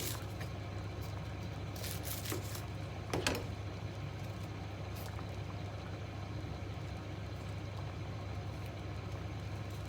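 Steady low hum in a kitchen with a few short knocks and clicks, about two and three seconds in, as onion and garlic are handled and cut.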